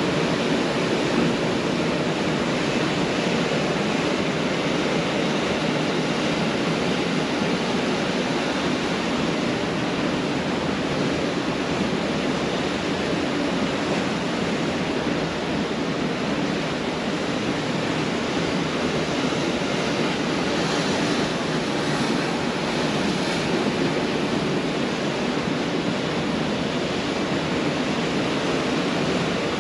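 Pacific Ocean surf breaking on a beach: a steady, dense wash of waves with no distinct single crashes.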